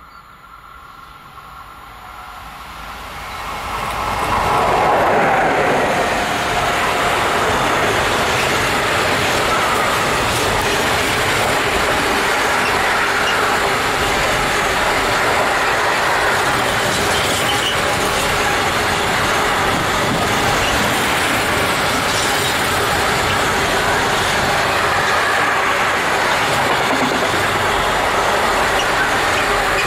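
Container freight train approaching and passing at speed. The noise builds from faint to loud as the locomotive arrives about four seconds in, then the long string of loaded container wagons rolls past steadily on the rails.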